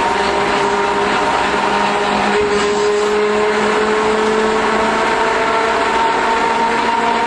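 Iyo Railway Matsuyama streetcar running along its line: a steady rumble of wheels on rail with a motor whine that rises slowly in pitch through the middle, as the tram gathers speed.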